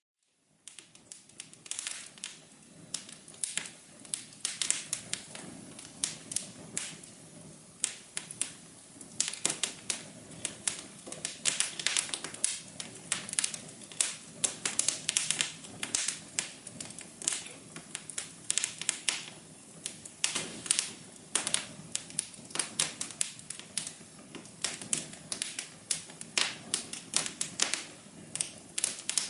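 Wood fire crackling: dense, irregular pops and snaps of varying loudness over a low steady rush. It starts after a moment of silence at the very start.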